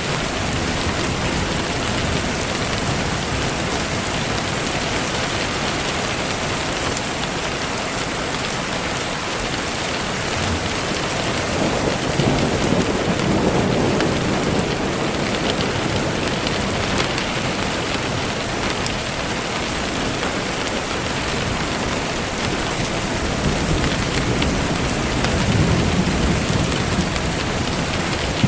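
Steady, dense rain falling, with low rumbles of thunder swelling up about twelve seconds in and again near the end.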